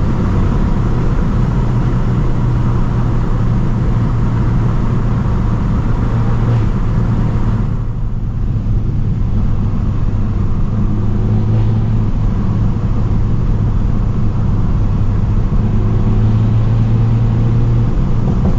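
Straight-piped BMW F30 328i with a Stage 2+ tune and catless downpipe, its turbo four-cylinder exhaust droning at a steady cruise with no revving, heard from inside the car. The higher road and air hiss drops away about eight seconds in while the low drone carries on.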